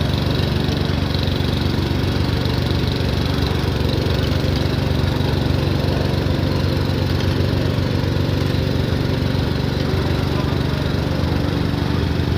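Small tractor engine running steadily at an even speed.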